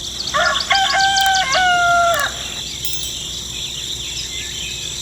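A rooster crows once, a long drawn-out call that drops off at the end. Small birds chirp and insects drone steadily behind it.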